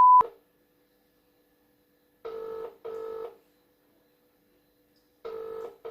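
Telephone ringback tone heard through a phone's loudspeaker: the British double ring, two short rings close together about two seconds in, then the next ring starting near the end. A steady beep cuts off right at the start.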